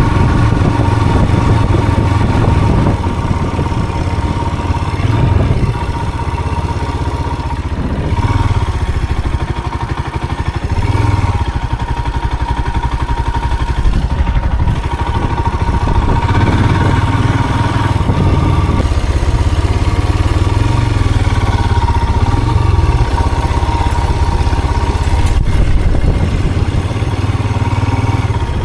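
A motor vehicle's engine running steadily while driving, with a low drone and a steady high tone above it.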